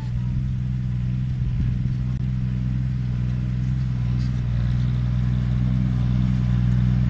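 Six-wheel dump truck's diesel engine running steadily.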